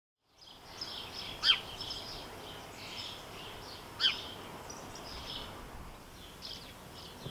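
Small garden birds chirping, with many short high chirps. Two louder downward-sweeping calls come about a second and a half in and again about four seconds in.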